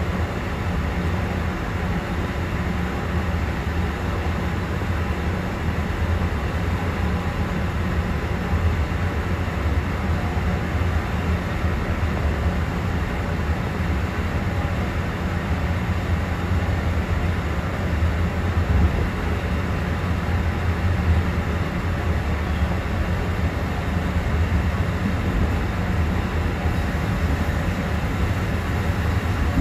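Mugunghwa-ho passenger train heard from inside its rear car while running: a steady low rumble of wheels on rail and the moving coach, without breaks.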